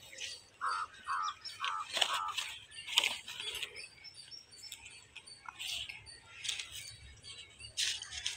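A bird gives five short calls in quick succession, starting about half a second in. Paper plates rustle and tap now and then as they are handled.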